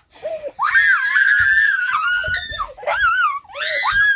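Child screaming in a high pitch: one long scream starting just under a second in, then shorter wavering cries.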